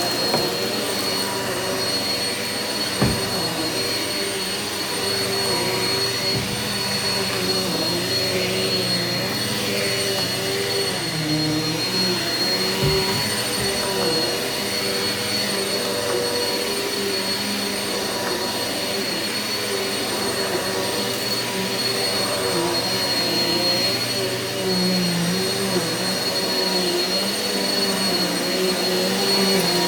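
Eureka vacuum cleaner running steadily on carpet, a constant motor noise with a high whine; its pitch dips slightly now and then as it is worked over the carpet, with a couple of faint knocks.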